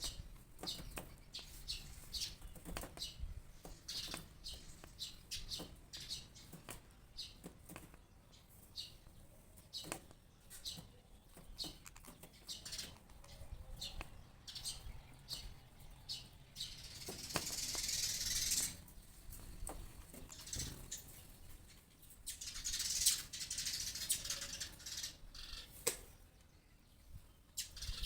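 A small bird fluttering its wings against its reflection in a mirror, in two loud flurries about 17 and 23 seconds in, with many short, sharp high-pitched sounds throughout.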